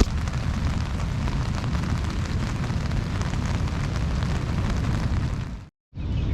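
Rain crackling on the tent through a strong wind and the rumble of heavy surf at night. It fades out near the end.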